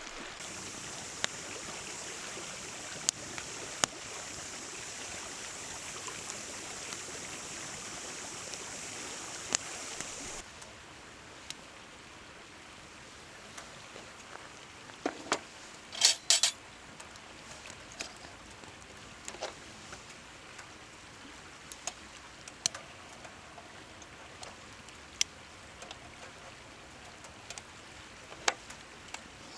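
A wood fire crackling and popping, with sharp scattered pops over a steady rushing hiss like a nearby river. About ten seconds in the hiss drops and becomes quieter, and a few seconds later a quick cluster of loud pops stands out.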